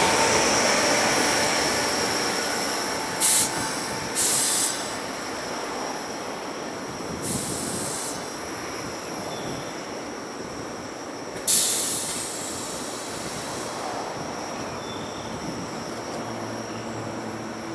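Sanyo Electric Railway 3000 series electric train moving slowly through a station, with a steady high-pitched wheel squeal. Its running noise fades over the first few seconds, and four short, sharp hisses break in at intervals.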